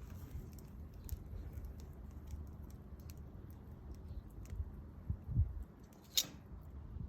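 Wood fire crackling, with scattered small pops over a low rumble. A low thump comes a little after five seconds, and a single loud sharp pop follows about six seconds in.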